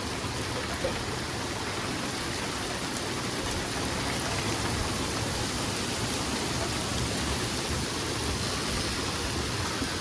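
Steady rain falling in a thunderstorm, an even rushing hiss with a faint tap about a second in.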